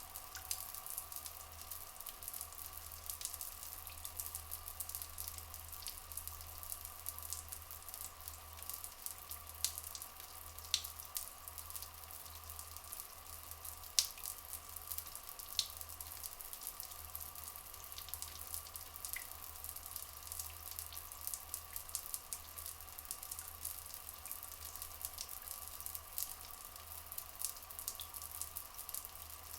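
Rainforest ambience of dripping and trickling water: many small drips, a few louder ones in the middle, over a steady background hum.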